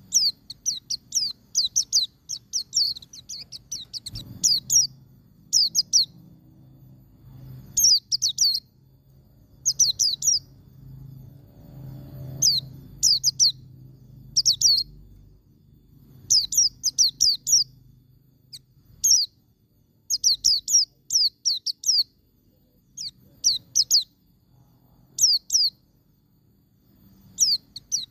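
White-eye (pleci) singing in the rapid ngalas style: repeated bursts of two to six quick, high, downward-sweeping notes with short pauses between bursts.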